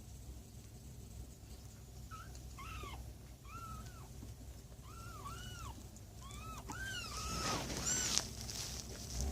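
Young kittens mewing: about ten short, high calls, each rising and falling in pitch, coming more often and louder toward the end.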